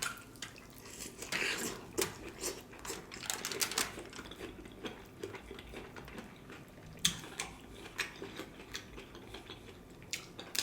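Close-miked chewing of a stuffed bell pepper: irregular wet smacks, clicks and soft crunches of pepper, beef, rice and cheese being chewed, without words.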